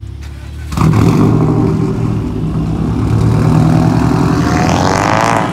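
Loud car engine and exhaust that comes in suddenly about a second in and runs steadily, then rises in pitch as it revs near the end.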